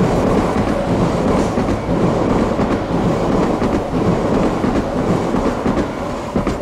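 Yamagata Shinkansen 'Tsubasa' mini-shinkansen train passing at speed close by: a loud, steady rush of wheels on rails, easing a little near the end.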